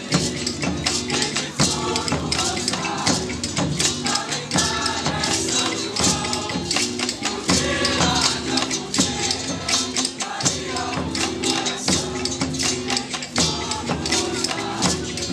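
Live group percussion music: tambourines and shakers beating a steady, dense rhythm, with voices singing along.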